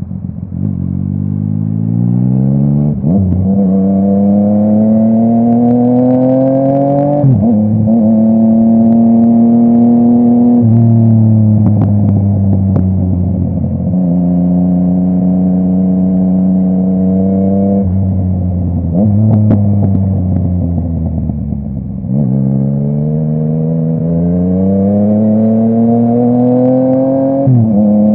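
Yamaha MT-09 inline-three engine through a full Akrapovic exhaust, pulling hard through the gears. The pitch rises and drops sharply at each upshift, twice early on and once more near the end. In between it runs steadily and then eases off with pops and crackles from the exhaust on the overrun.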